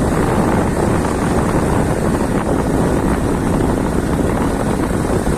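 Motorcycle engine running steadily on a rough dirt track, mixed with wind buffeting the phone's microphone.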